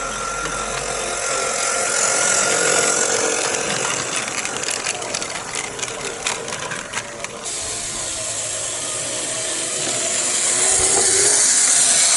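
Small live-steam garden-railway locomotive running on the track, its hissing exhaust swelling twice as it comes close. A quick run of clicks comes in the middle.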